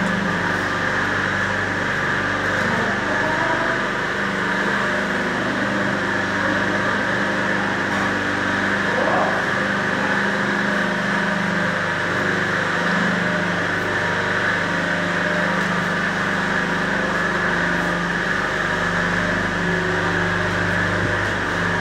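CNC cutting machine running steadily: an even mechanical hum with a high whine over it, no breaks or changes.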